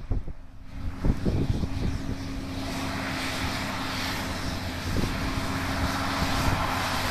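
John Deere 8770 tractor's diesel engine running with a steady hum. A hiss swells in over it about two and a half seconds in, and a few low thumps of wind on the microphone come in the first second.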